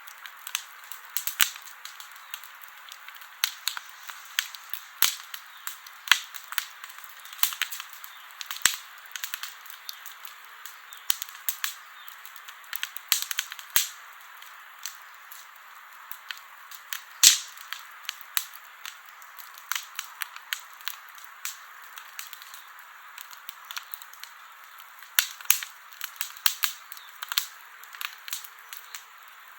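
Wood campfire crackling: irregular sharp pops and snaps over a steady soft hiss of burning, with one louder pop about seventeen seconds in.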